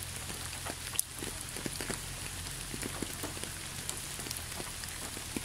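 Steady rain, with individual drops ticking sharply here and there and one louder drop about a second in.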